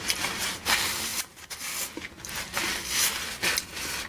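Paper napkin rubbing and rustling, a series of short scratchy strokes.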